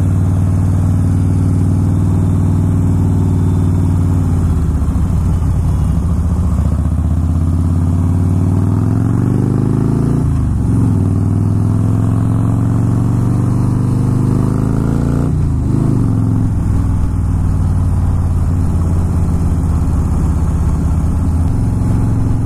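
Motorcycle engine under way, holding a steady pitch and then accelerating: the note rises from about four seconds in, drops briefly at a gear change about ten seconds in and again about fifteen seconds in, then settles back to a steady cruise.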